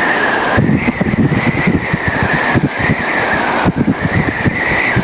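Car driving with a window open: road noise and wind buffeting the microphone in uneven low gusts from about half a second in, over a steady wavering high whine.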